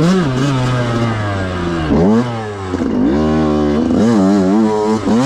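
Yamaha YZ125 two-stroke dirt bike engine under way, its note wavering with the throttle. The revs drop sharply about two seconds in and again a second later, then climb back.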